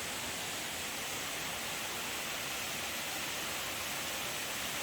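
Waterfall heard from close underneath, a steady rush of falling water with no breaks.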